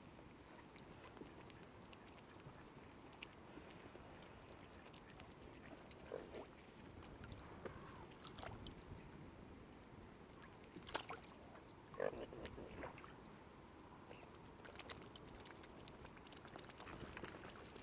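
Near silence: faint ambience with scattered small clicks and two sharper soft knocks about eleven and twelve seconds in.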